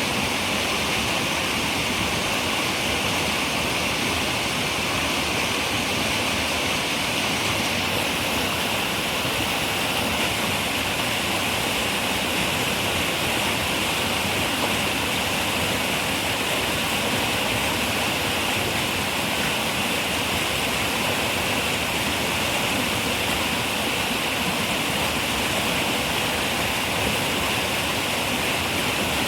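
Running river water: a steady, even rush with no breaks or changes.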